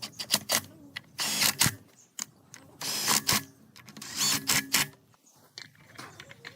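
Workshop hand-tool work: a run of sharp clicks and knocks, with three short noisy bursts spaced about a second and a half apart.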